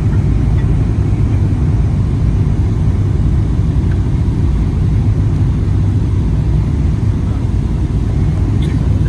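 Steady low rumble of cabin noise inside a Boeing 777-300ER airliner, even and unchanging.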